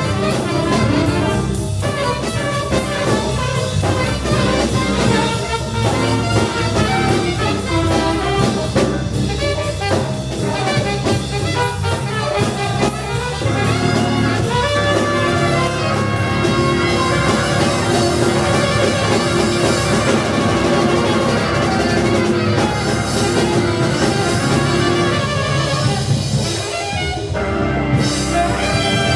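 A live jazz band playing, with horns over the rhythm section. About halfway through, the horns settle into long held notes.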